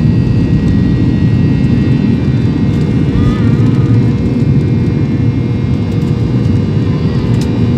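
Boeing 737-800 jet engines and airflow heard inside the cabin: a loud, steady rumble with faint steady whining tones over it.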